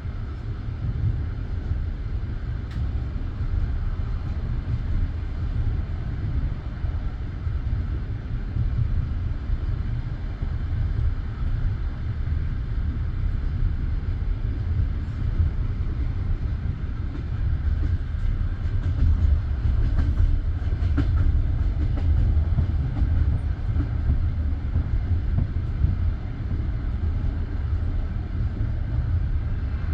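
Passenger train coach running at speed, heard from inside: a steady rumble of the wheels on the rails, growing a little louder about two-thirds of the way through.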